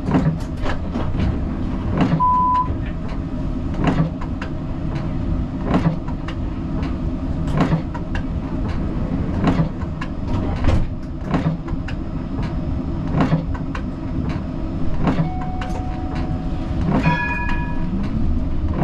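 Siemens Combino tram running on its rails, with a steady low rumble and repeated sharp clicks and knocks from the wheels on the track. A short beep sounds about two seconds in, and brief ringing tones come near the end.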